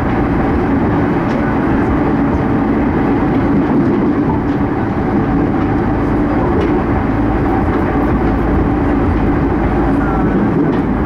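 Steady running noise of an E231-series electric commuter train heard from inside the carriage: a dense low rumble of wheels on rail and running gear, with a few faint clicks.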